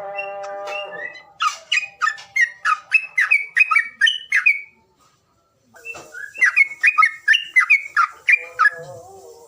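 Songbird song: a wavering call rich in overtones, then rapid repeated sharp whistled notes that sweep downward, about three a second, in two bouts with a short silence about five seconds in.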